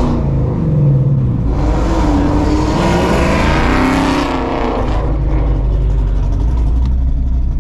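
Straight-piped Shelby GT350's 5.2-litre flat-plane-crank V8 running at low speed, with a rev that rises and falls from about a second and a half in to about four and a half seconds before it settles back to a rumble.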